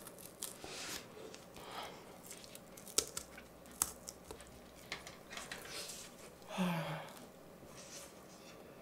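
Close-miked eating sounds: chewing and small sharp clicks and smacks as the last corn dog batter is nibbled and scraped off its wooden stick. A short paper rustle comes about two-thirds of the way in.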